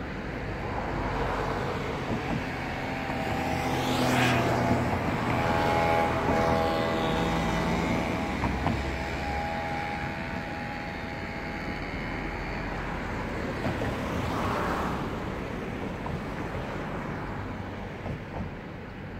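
A DB electric train running past, its motors giving a whine of several steady tones over the rumble of the wheels, loudest in the first half. There are two brief rushes, about four and fifteen seconds in.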